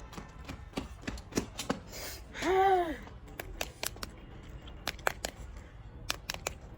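Crisp clicks and crunches of someone eating, scattered through. About two and a half seconds in comes a short voiced 'mm' that rises and falls in pitch.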